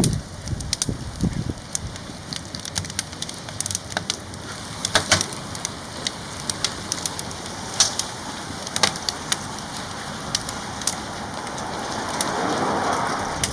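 Firewood burning in the firebox of a wood-fired cauldron gudeul: irregular sharp crackles and pops over a steady rushing hiss, which swells near the end.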